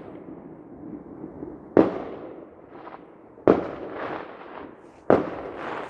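Fireworks going off: three loud bangs about a second and a half apart, each echoing away, with a few fainter pops between them.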